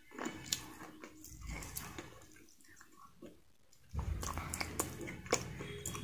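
Close-miked chewing of fried chicken: wet mouth smacks and crisp little clicks. It gets louder and busier about four seconds in.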